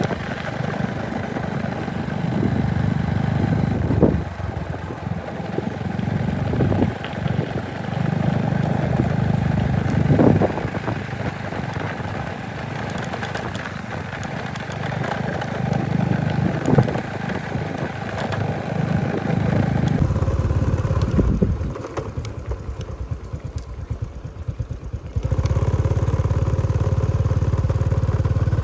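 Motorcycle engine running, surging up and easing off every few seconds, with rattling clatter; near the end it settles into a louder, steady run.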